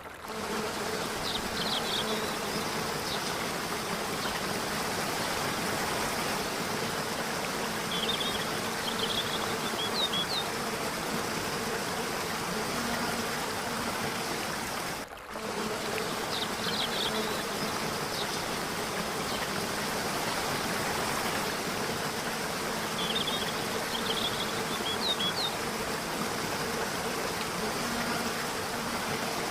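Steady rush of falling water, with clusters of short high chirps now and then and a faint low hum at times. The sound dips briefly about halfway through, and the same pattern of chirps comes again after it.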